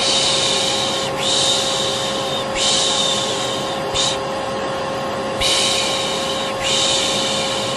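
Vacuum cleaner running with a steady hum, overlaid by repeated 'shh' shushing sounds, each about a second long, with short pauses between them and one longer pause about halfway through.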